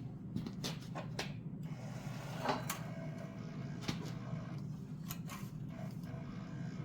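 Cordless drill running slowly to turn a reel and wind MIG welding wire onto it, a steady low hum with scattered clicks and knocks from the wire and spools.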